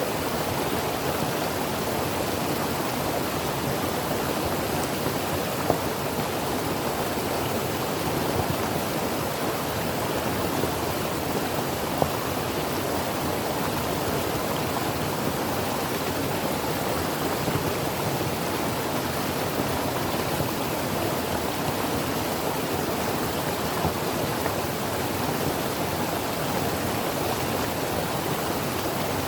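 Creek water flowing and babbling over rocks, a steady rushing with a few small splashes.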